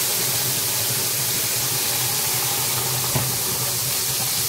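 Tomato, green chilli and ginger paste sizzling loudly in hot mustard oil in an iron kadhai: a steady hiss of frying as the wet paste hits the hot tempered oil. One light knock about three seconds in.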